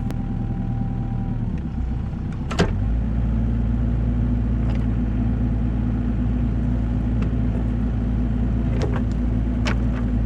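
Kubota KX121-3 excavator's diesel engine running. A sharp metal clank comes about two and a half seconds in, as the engine note steps up. Lighter clinks follow later, as the quick-change bucket coupler is worked.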